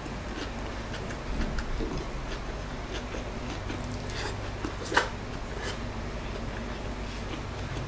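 Close eating sounds: chewing fried lumpia shanghai (spring rolls), with scattered small crunches and mouth clicks, and one sharp click about five seconds in.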